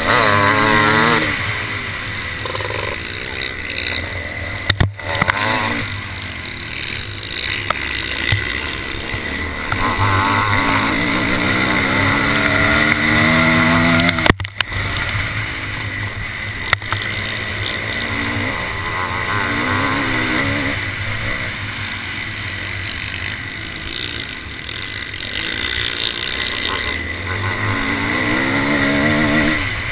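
Motocross bike engine heard close up from the bike itself, repeatedly revving up through the gears in rising sweeps and backing off, with wind rushing over the microphone.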